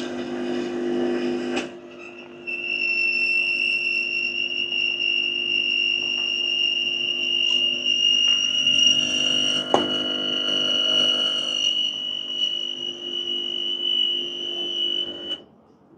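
Noisy vibratory pump of a Bezzera Magica PID heat-exchanger espresso machine running. A low buzzing hum lasts a couple of seconds, then after a short break it resumes with a steady high whine over the hum for about thirteen seconds, cutting off suddenly near the end.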